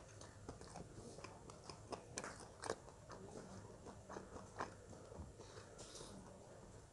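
Faint chewing and crunching of crispy deep-fried duck, heard as scattered soft crackles and clicks.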